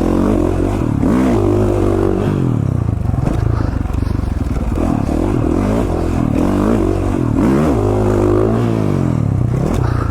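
KTM 450 XC-F dirt bike's single-cylinder four-stroke engine being ridden hard, its pitch climbing and dropping again and again as the throttle opens and closes.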